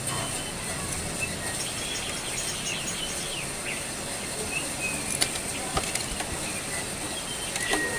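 Jongkangan coklat songbird giving scattered short chirps over a steady hiss, with a quick run of short high notes about two seconds in and a couple of sharp clicks later on.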